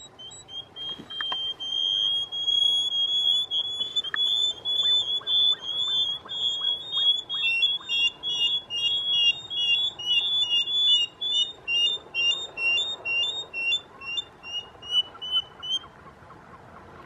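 A bird calling: a long, rapid run of short, high whistled notes. About halfway a second, lower-pitched caller joins, and the two alternate until the calls stop near the end.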